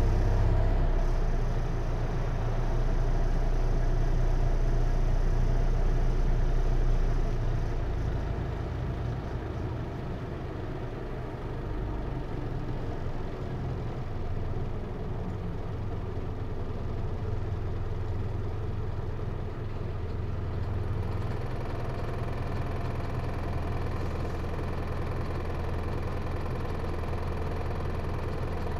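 Hino Liesse minibus's J05C four-cylinder diesel engine running, heard from inside the bus. The deep engine hum is louder for the first seven seconds or so, then drops to a quieter, steadier running sound and rises a little again about two-thirds of the way through.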